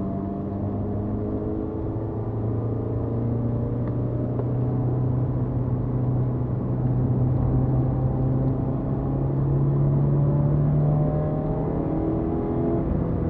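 BMW E30 318is's 1.8-litre four-cylinder engine pulling hard as the car accelerates, heard from inside the cabin. The engine note rises slowly for most of the time, then drops near the end as the car comes off the throttle.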